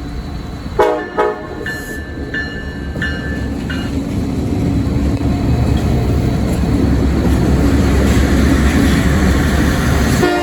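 Diesel freight locomotive giving two short horn toots about a second in, followed by a few short ringing tones. Then the engine rumble of the approaching train grows steadily louder.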